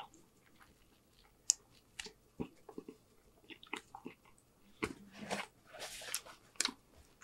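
Close-miked chewing of a bite of French bread: scattered crisp crunches and wet mouth clicks. About five seconds in comes a soft rustle as a paper napkin is wiped across the mouth.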